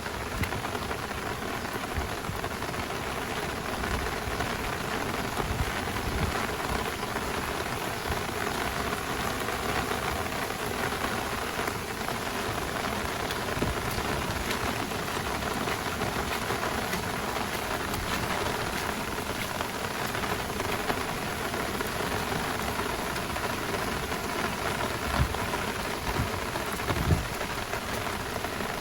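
Heavy rain falling steadily in a downpour, with a couple of brief low thuds near the end.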